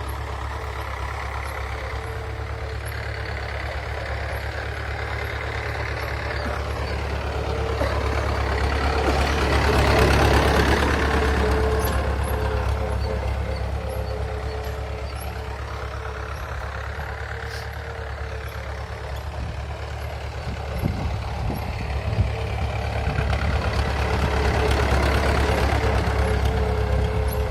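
Tractor engine running steadily with a low drone, swelling louder about ten seconds in and again near the end.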